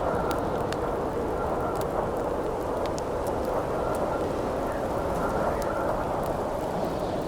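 Wood campfire crackling, with sharp pops scattered irregularly over a steady rush of strong wind. A faint whistle in the wind comes and goes.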